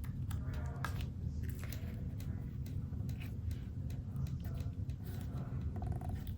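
Faint clicks and light rustles of card stock being handled and pressed down as a glued paper panel is stuck onto a card, over a steady low hum.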